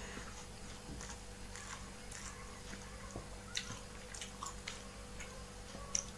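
A person eating rice and catfish curry by hand, with wet chewing and mouth smacks. Short clicks come irregularly, and the sharpest is about six seconds in.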